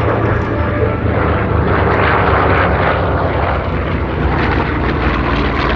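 Two F4U Corsair fighters flying past, their Pratt & Whitney R-2800 eighteen-cylinder radial piston engines and propellers making a loud, steady drone that is loudest about two seconds in.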